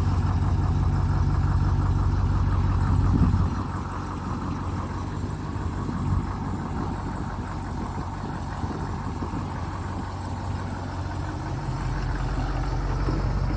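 2014 Ford F350 dually pickup's engine idling steadily, louder for the first few seconds, quieter through the middle, and louder again near the end.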